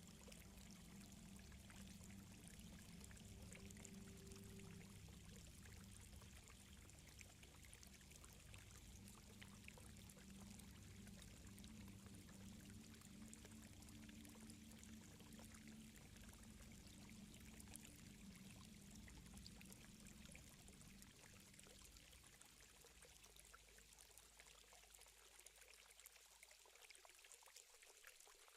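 Faint ambience of flowing water, like a gently running stream. Underneath is a soft low drone that fades away about three-quarters of the way through.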